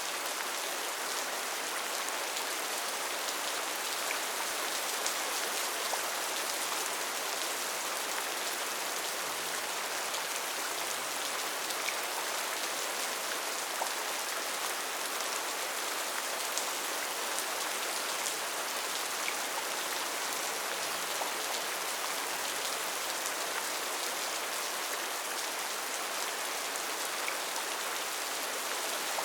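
Steady rainfall in a rainforest, a dense even hiss of drops with scattered small drop ticks on leaves and surfaces.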